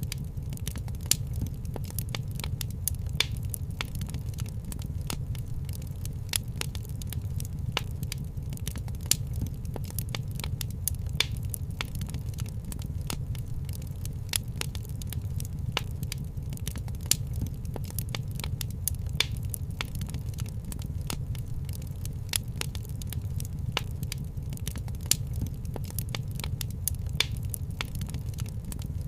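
Wood fire crackling in a fireplace: a constant run of small crackles with a sharper pop every couple of seconds, over a low steady rumble.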